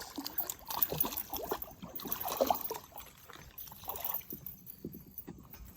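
Irregular light splashes, knocks and rustles as a small bass is fought to the kayak and lifted aboard. The noise is busiest in the first half and dies down after about three seconds.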